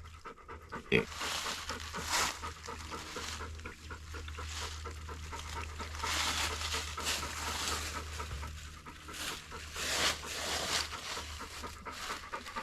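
Gasoline being poured from a jug into a dirt bike's fuel tank, glugging and gurgling unevenly.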